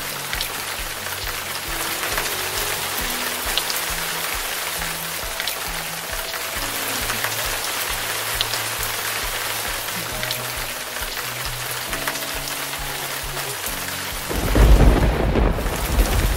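Steady rain falling, with soft background music of slow, held low notes. About two seconds before the end a loud low rumble sets in.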